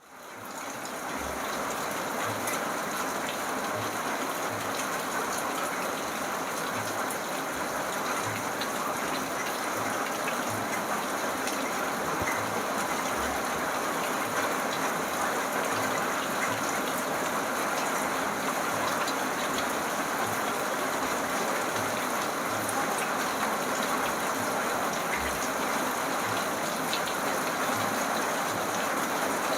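Steady rain falling, fading in over the first second or so, with scattered dull drop thuds underneath.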